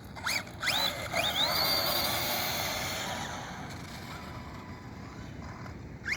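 Arrma Kraton RC truck accelerating: two short rising motor whines, then a longer whine that climbs in pitch about a second in as it speeds up, over drivetrain and tyre noise. The sound then fades as the truck moves away, with a brief rising whine near the end.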